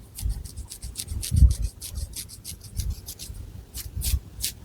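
Long fingernails scratching through thick hair and along the scalp in quick, short strokes, several a second, with dull low thumps beneath them.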